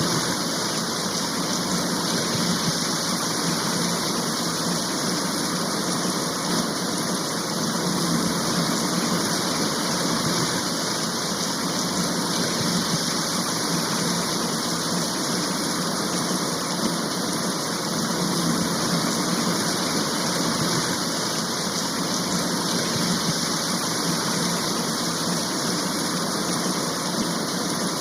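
Steady rain shower, an even unbroken hiss of falling rain.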